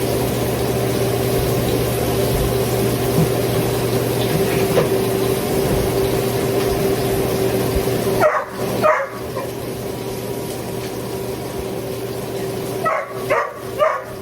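Electric fan running steadily with a constant motor hum. A pair of short high yelps comes about eight seconds in, and a few more near the end.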